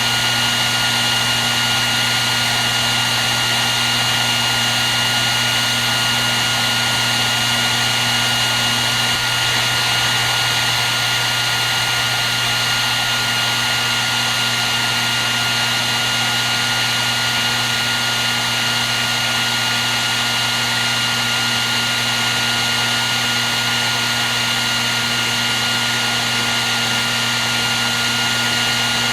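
Hair dryer running continuously: a steady rush of blown air with a constant high whine from the fan motor and a low hum.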